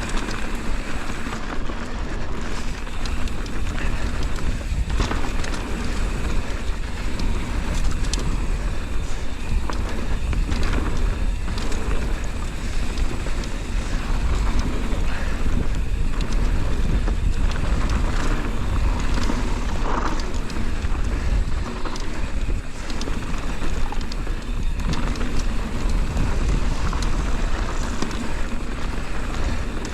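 Wind buffeting a GoPro microphone on a 2023 Intense Primer S mountain bike going fast down a loose, dusty trail, with steady tyre noise and scattered clicks and knocks from the bike over bumps.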